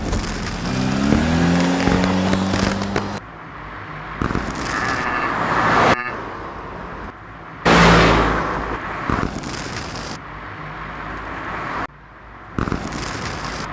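Car and road noise, in several short pieces that start and stop abruptly, with an engine note rising in pitch in the first few seconds.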